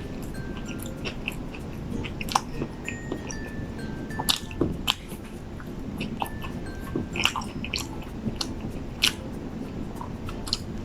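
Close-miked chewing and biting of a KFC Zinger Stacker fried-chicken burger: wet mouth sounds with sharp crunches scattered through, the loudest around the middle.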